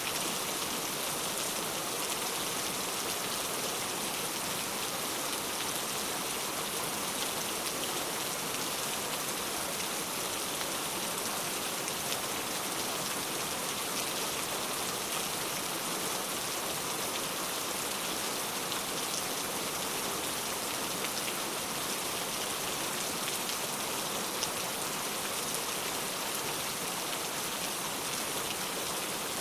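Heavy rain falling steadily, a dense even hiss of drops on hard surfaces with faint individual drop ticks.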